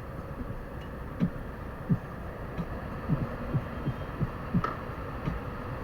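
Steady wind and road noise from a moving motorcycle, with a run of short low thumps about two a second.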